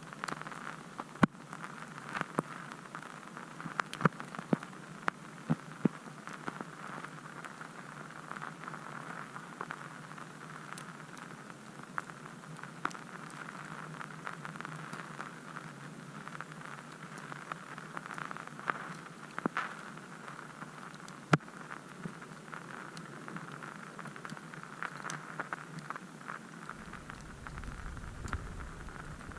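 Falling snow and ice pattering steadily, with many scattered sharp ticks of pellets hitting surfaces. A low rumble comes in near the end.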